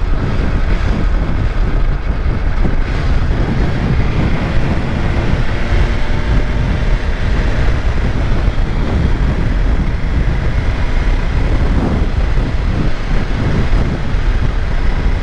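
Wind rushing over the microphone mixed with the inline-four engine of a BMW S1000RR M sport bike running steadily at road speed.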